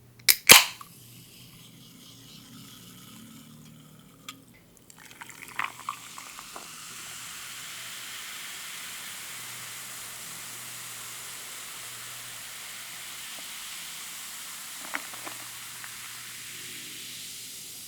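A drink being poured steadily into a glass for about eleven seconds, stopping abruptly, after a sharp click near the start and a few lighter clinks.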